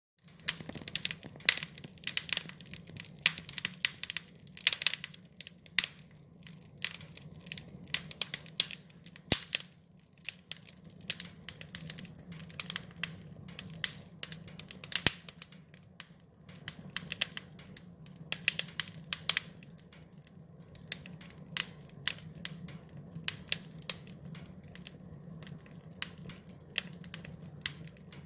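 Wood fire crackling: frequent, irregular sharp pops and snaps over a steady low background.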